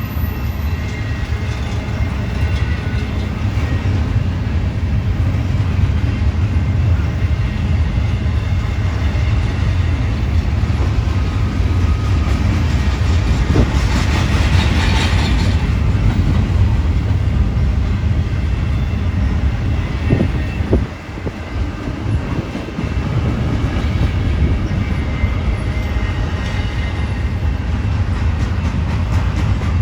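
Freight train rolling past with a steady, loud low rumble. A brief brighter hiss rises over it about fourteen seconds in.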